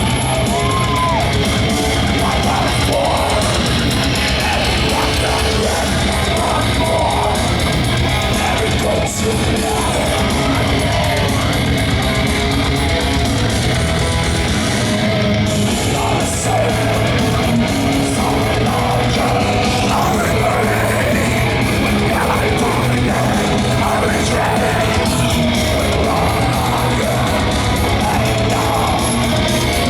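Live heavy metal band playing loudly, with distorted electric guitars, drums and shouted vocals.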